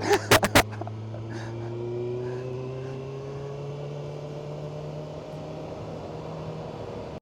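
Motorcycle engine running under way with a passenger aboard, its pitch rising slowly as it pulls through a gear. A few short loud sounds come in the first second.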